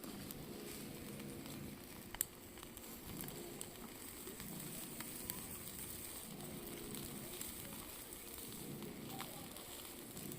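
Food sizzling and crackling steadily on a grill, with one sharp click about two seconds in.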